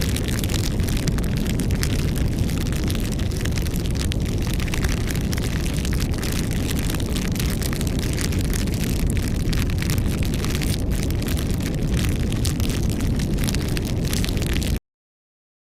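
Wood campfire burning, a steady rushing noise dense with small crackles and pops; it cuts off suddenly near the end.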